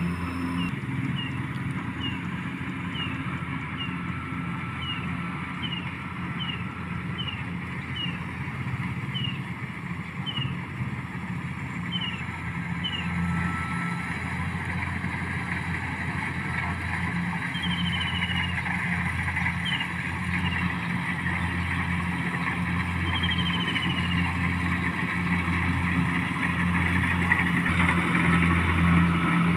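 A motor engine running steadily, a little louder toward the end, with short high falling chirps repeating over it, closely spaced at first and sparser later.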